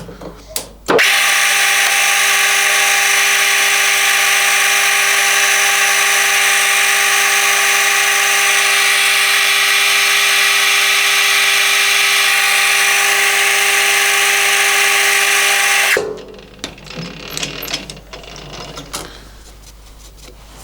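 Small metal lathe running steadily while facing a brass blank, a constant motor whine over a hiss of cutting, starting and stopping abruptly. After it stops, a few light clicks and knocks.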